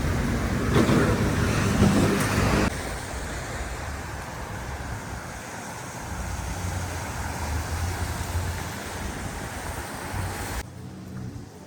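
City street traffic: vehicles passing, loudest in the first three seconds, then a steadier low rumble that drops away sharply near the end.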